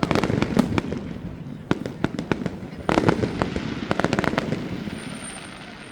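Fireworks going off: clusters of sharp bangs and crackles, a quick burst at the start and a denser volley from about three seconds in.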